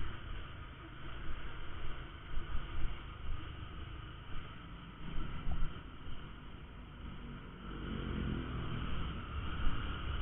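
Honda Verza 150 motorcycle's single-cylinder engine running in traffic along with road noise. About eight seconds in, the engine note rises as the bike speeds up.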